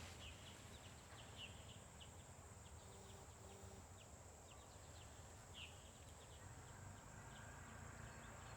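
Near silence: faint outdoor ambience with a steady high-pitched insect drone and a few faint short chirps scattered through it.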